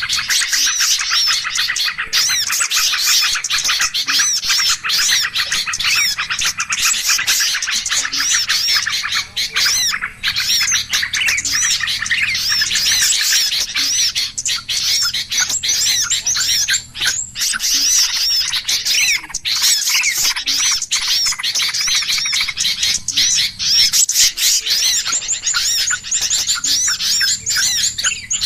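A dense, continuous chorus of many small songbirds chirping and calling over one another: a noisy bird-lure recording used to draw small birds in. A thin, steady high whistle rises above the chirping near the end.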